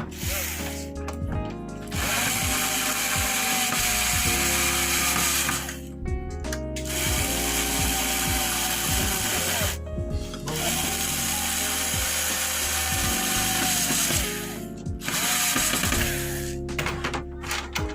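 Cordless drill-driver running in three long bursts of three to four seconds each, its motor whine rising as it starts and falling as it stops, driving screws. Background music plays underneath.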